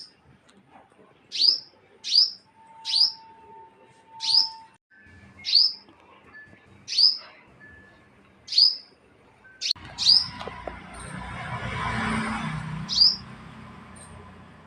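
A small bird, guarding its nest, gives a string of short, sharp, high chirps, each dropping in pitch, about one a second. From about ten seconds in, a rushing noise with a low rumble swells up and then fades, while the chirps carry on.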